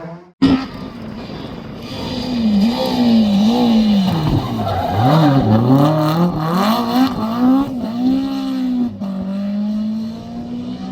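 Rally car engine driven hard on a stage, its revs climbing and dropping again and again through gear changes and lift-offs, and running steadier near the end. The sound cuts out briefly just before it starts.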